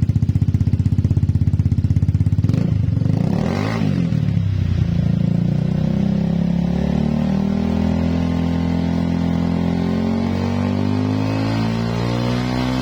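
Honda PCX 160 single-cylinder scooter engine through a 3tech Ronin Hanzo aftermarket exhaust: idling with a pulsing beat, blipped up and back down about three seconds in, then held at raised revs that creep slowly higher. The uploader thinks the exhaust tone may be cracked because its glass-wool packing has burnt out after about seven months of use.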